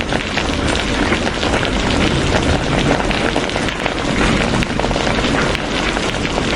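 Steady heavy rain falling, a dense even hiss with many fine drop patters.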